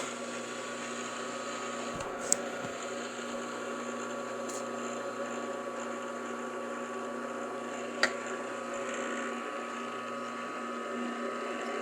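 A metalworking machine tool's motor starts abruptly and runs at a steady speed with a constant hum. Two sharp clicks sound, one about two seconds in and one about eight seconds in.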